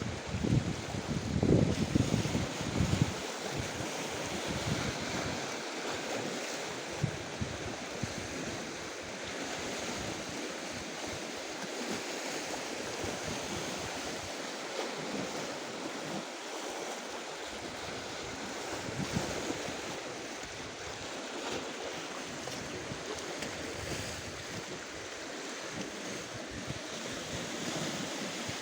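Sea surf washing steadily on the shore. Gusts of wind rumble on the microphone for the first few seconds.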